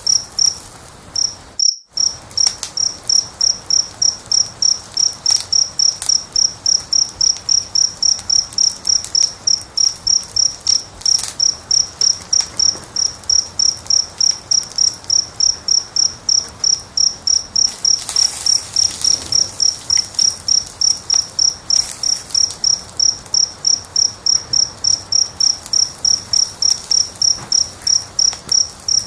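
A cricket chirping steadily, about three high chirps a second, with faint crackles of a wood fire underneath. All sound cuts out for a moment about two seconds in.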